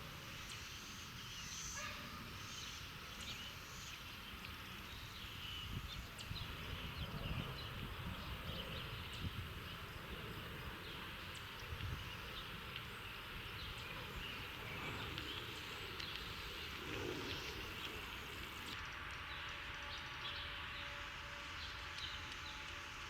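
House sparrows giving scattered short chirps over a steady low background rumble of city noise.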